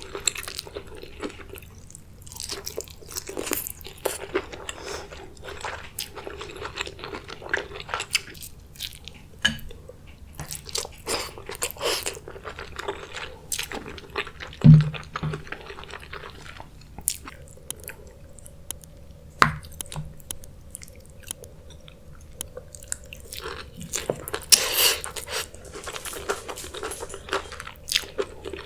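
Close-miked eating of spicy king crab: wet chewing and biting with many short, sharp crunches and cracks of shell, and one heavier knock about halfway.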